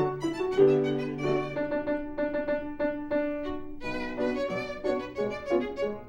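Instrumental music led by a violin, playing a melody of short, changing notes.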